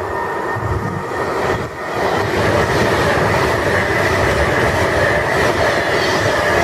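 A Class 390 Pendolino electric train running along the platform, a loud, steady rumble of wheels on rail with a steady high whine over it. It grows louder about two seconds in as the train comes close.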